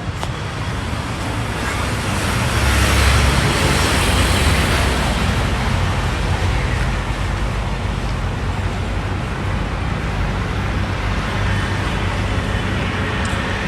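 Car on the move: steady road and engine noise with a low rumble, swelling to its loudest a few seconds in and then holding steady.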